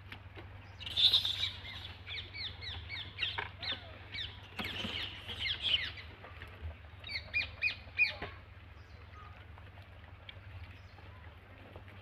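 Birds calling: a run of short, high, downward-sliding calls, several a second, in bursts from about a second in until about eight seconds in.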